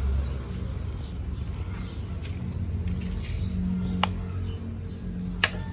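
KTM Duke 200's single-cylinder engine idling through an SC Project aftermarket exhaust, a low steady note. Two sharp clicks cut in, about four seconds in and again a second and a half later.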